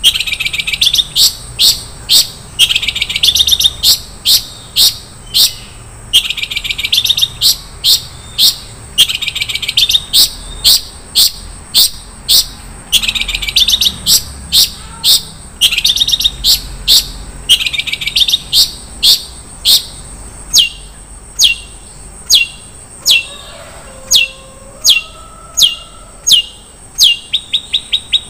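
Long-tailed shrike (cendet) singing: bursts of rapid trilled notes every couple of seconds with sharp single notes between, and over the last third only sharp single notes, a little over one a second. A steady high-pitched tone sits underneath.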